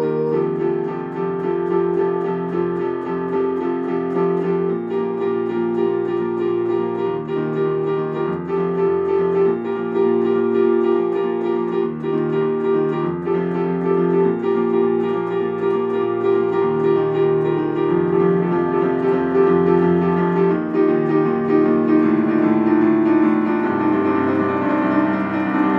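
Electric piano or keyboard playing sustained chords that change every second or two, with no singing.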